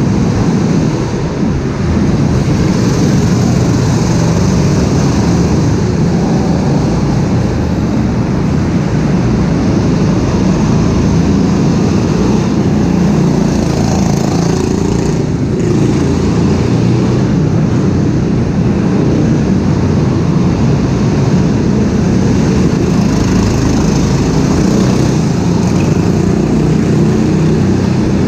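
Go-kart engine running steadily with a dense low rumble.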